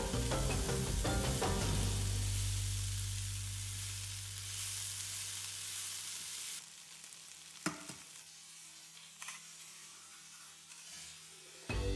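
Food frying in a pan, a steady sizzling hiss under background music whose last low chord fades out. About two-thirds of the way in the sizzle cuts off, leaving a quiet stretch with two or three sharp clicks before the music starts again near the end.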